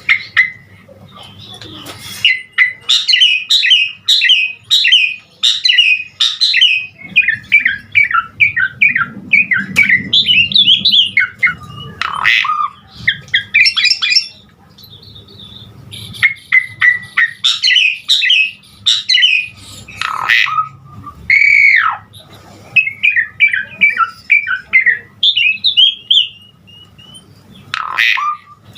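Asian pied starling (jalak suren) in full song: long runs of fast, varied chattering notes, broken by harsh loud squawks and one long down-slurred whistle about two-thirds of the way through.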